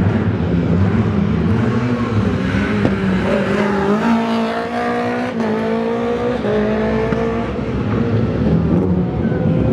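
Rally car engine under hard acceleration, its pitch climbing, with a gear change about halfway through and the revs rising again after it.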